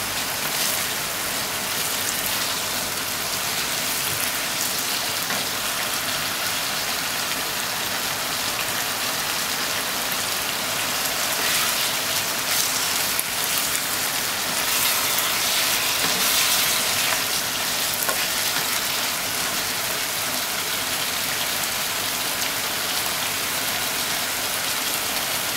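Ground pork, onion and eggplant sizzling in a hot frying pan as they are stirred with a spatula: a steady frying hiss, a little louder around the middle.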